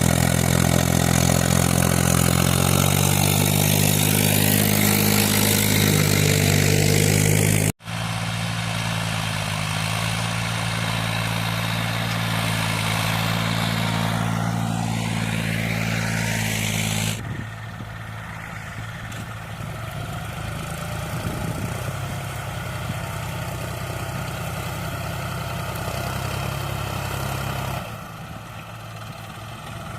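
Diesel tractor engine running steadily. The sound changes abruptly three times: a brief dropout about eight seconds in, then a quieter stretch from about seventeen seconds, and a further change near the end.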